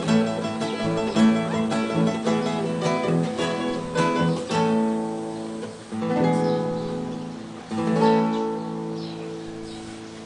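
Solo acoustic guitar playing quick plucked runs, then three ringing chords, about four and a half, six and eight seconds in, each left to fade.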